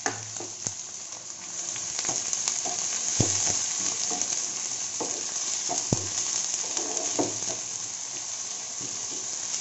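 Chopped onion, garlic and curry leaves sizzling in hot oil in a nonstick pan, stirred with a wooden spatula. The steady sizzle grows a little about two seconds in, and the spatula knocks against the pan now and then.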